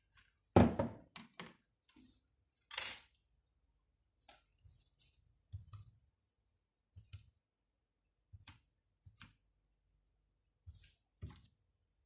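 Tools and small parts handled at a workbench: a loud knock about half a second in, a short rasp near three seconds, then scattered light clicks and taps.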